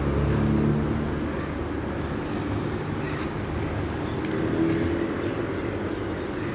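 Train running at a station: a steady low rumble with a faint humming tone.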